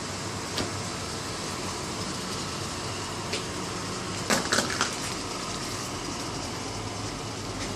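Steady background noise with a faint low hum, broken by a few short clicks, a little cluster of them about four to five seconds in.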